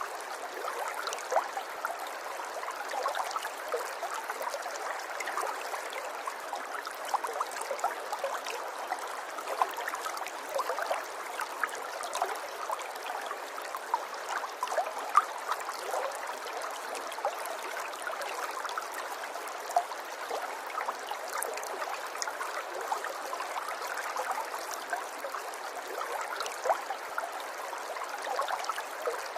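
River water flowing steadily with a light babble and many small splashes.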